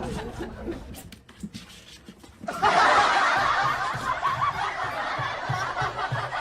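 Many people laughing together, breaking in suddenly about two and a half seconds in after a quieter moment.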